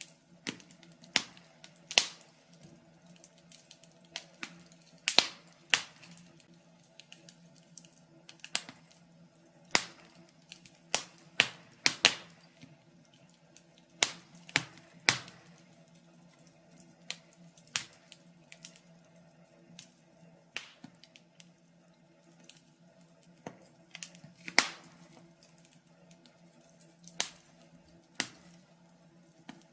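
Log fire crackling: sharp, irregular pops and snaps, about one or two a second and uneven in strength, over a faint steady low hum.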